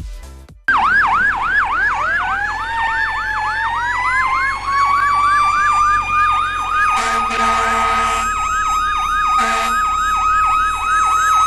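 Emergency-vehicle siren starting suddenly about half a second in: a fast yelp of about four sweeps a second over a wail that rises in pitch and then holds steady. Two horn blasts sound in the second half, the first about a second long and the second shorter.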